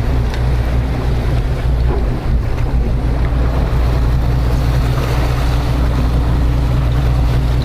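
Boat engine running steadily under way, a low drone under the rush of water and wind buffeting the microphone.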